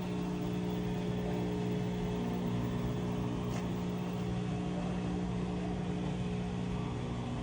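Samsung front-loading washing machine running at the end of its cycle, a steady even motor hum, with one faint click about halfway through; the machine has a newly fitted drum spider.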